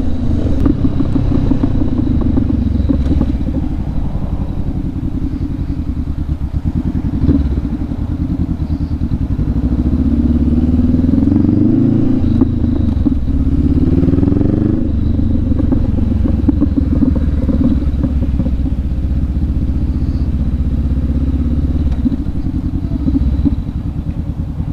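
Motorcycle engine running under way, with road and wind noise. About halfway through, the pitch rises twice in quick succession as the bike accelerates.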